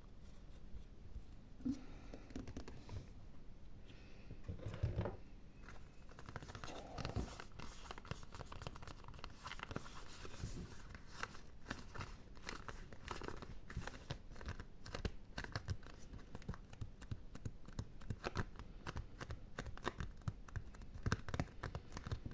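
ASMR scratching trigger: fine, rapid scratching and rubbing on an object, sparse and quiet at first, then a dense, continuous run of scratches from about six seconds in.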